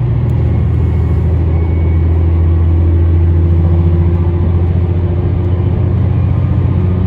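A train running, a loud, steady low rumble with a faint hum above it through the middle.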